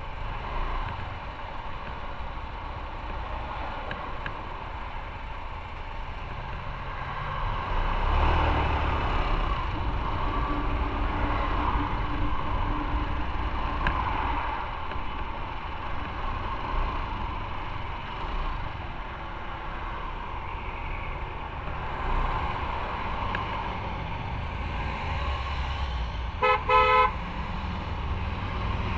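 Steady engine, road and wind noise of a motorcycle riding in traffic, with a vehicle horn sounding two short beeps near the end.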